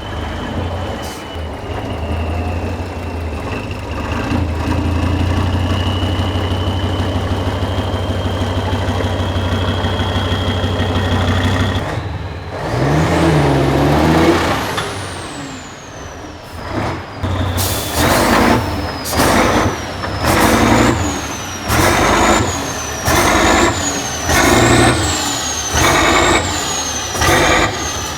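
A heavy six-wheel-drive trial truck's diesel engine working hard under load, with a steady turbo whistle. Then it is revved in short, regular bursts about once a second, the turbo whine rising and falling with each burst as the truck fights for grip on a steep slope.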